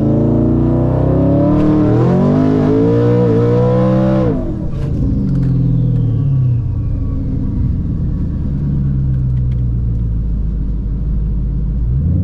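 Twin-turbo Ford F150 engine at full throttle down the drag strip, its pitch climbing and stepping down at two or three gear changes. The throttle cuts off abruptly about four seconds in. A high whine falls away over the next few seconds while the engine settles to a lower rumble as the truck coasts.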